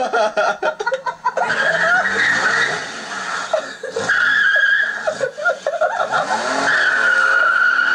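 A car's tyres squealing on pavement as it spins doughnuts, with the engine revving up and down underneath. It opens with a quick rattle of sharp clicks, then settles into a steady, wavering screech.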